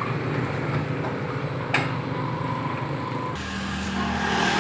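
Motorcycle engine running steadily, with a single sharp click a little under two seconds in and a shift to a steadier, deeper tone about three seconds in.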